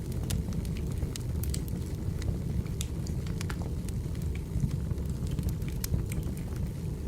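Burning firewood crackling: a steady low rumble of flames with many short, sharp cracks scattered irregularly throughout.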